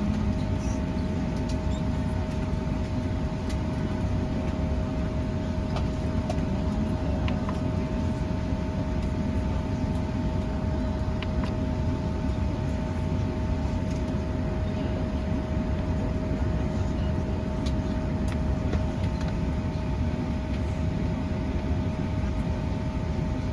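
Steady cabin noise of a Boeing 737-900 on the ground before departure: a constant low rumble with two steady whining tones over it, and a few faint clicks.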